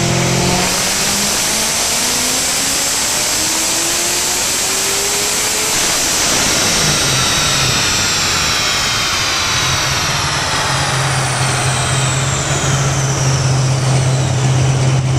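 Corvette V8 on a chassis dyno near the end of a run, running with a high whine from the spinning rollers and driveline. From about halfway the whine falls slowly in pitch as the rollers coast down, and the engine settles into a steady idle about two-thirds of the way through.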